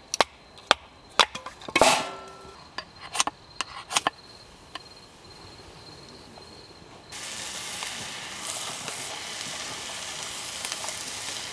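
Several sharp knocks and clicks over the first four seconds, the loudest a short burst about two seconds in. After an abrupt change about seven seconds in, a steady hiss follows.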